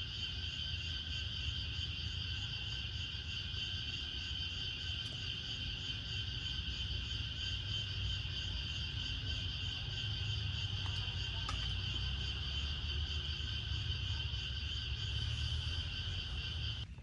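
Chorus of night insects, likely crickets, trilling steadily in several overlapping pitches over a low rumble. It cuts off suddenly near the end.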